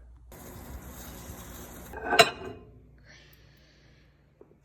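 Cookware sounds during stovetop cooking: a steady hiss for about two seconds, then one sharp clatter of a pot or pan, followed by a fainter hiss that fades away.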